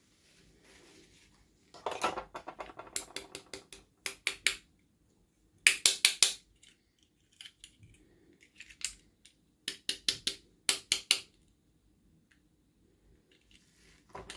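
Plastic toy parts and packaging being handled, giving runs of sharp, quick clicks and taps with short pauses between them.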